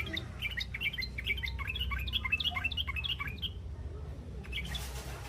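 Juvenile yellow-vented bulbul's 'ngriwik' chatter: a quick run of short, high chirps for about three seconds, then it breaks off.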